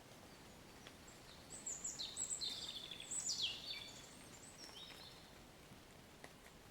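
A songbird sings a run of quick, sharply falling chirps over a faint, even hiss of rain. The song starts about a second and a half in and lasts about three seconds.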